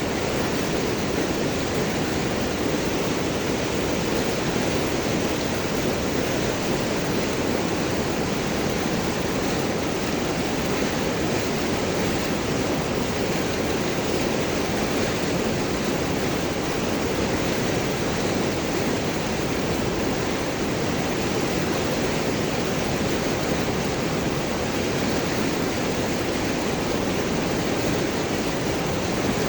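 River water rushing and gurgling over large rocks, a steady unbroken rush.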